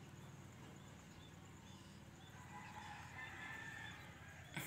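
Faint outdoor ambience with distant birds calling in short chirps, and a sharp click just before the end.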